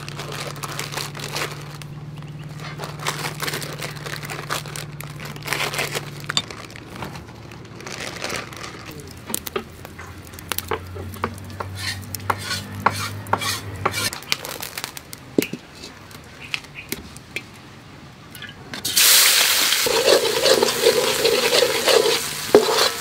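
Scattered small clicks and crinkles, with plastic instant-noodle packets being handled at the start. About 19 seconds in, a loud steady sizzle starts suddenly as minced garlic fries in hot oil in a metal wok.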